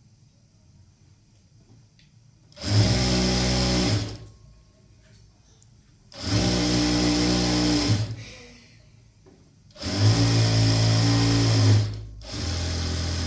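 Electric sewing machine running in three bursts of about one and a half to two seconds each, stopping in between, with a shorter, quieter run near the end.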